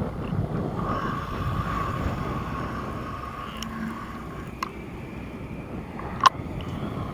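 Wind buffeting the microphone in a low rumble, with a steady hum above it. Two sharp clicks come late on, the second the loudest.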